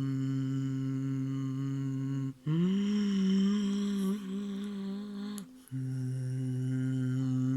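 Sustained humming or vocal toning for sound healing: a low steady note, cut by a short pause about two seconds in. A higher note then slides up, is held for about three seconds, and the low note returns.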